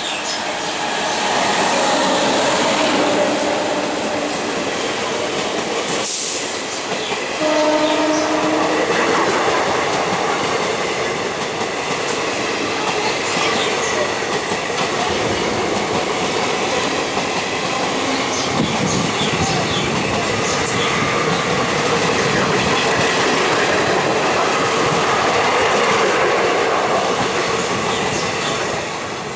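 Express passenger train hauled by a WAP-class electric locomotive passing at speed. The horn sounds near the start and again, more strongly, about eight seconds in. The coaches rush by with their wheels clattering over the rail joints.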